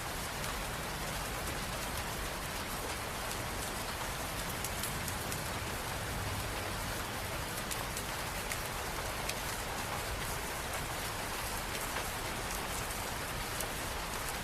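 Steady rain falling, with the patter of many individual drops hitting surfaces.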